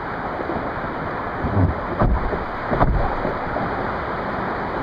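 Sea water washing against a kayak and wind buffeting the microphone, a steady rushing noise with three louder surges about one and a half, two and three seconds in.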